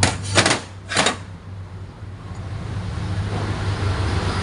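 Metal automatic-transmission parts knocking and clinking as they are handled on the bench: three sharp knocks in the first second, over a steady low hum.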